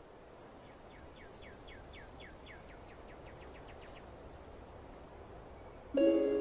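A bird trills a fast run of short downward-sweeping notes, about four a second for some three seconds, over a steady background hiss that fades in. About half a second before the end, much louder plucked-string music starts.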